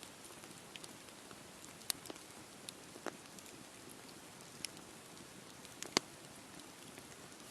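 Wood campfire burning: a steady soft hiss with irregular sharp crackles and pops from the burning wood, the loudest pop about six seconds in.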